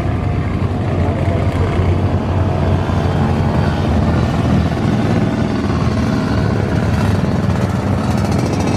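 Jet airliner engines running, a loud steady rumble with a faint steady hum over it.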